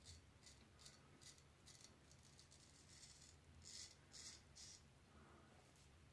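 Faint, quick scraping strokes of a straight razor cutting through lathered stubble, about two or three a second, with three slightly louder strokes near the middle.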